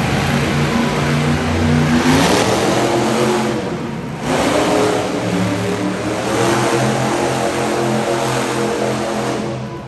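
A large vehicle engine revving up and down. The pitch climbs about two seconds in, drops sharply near four seconds, then rises and holds.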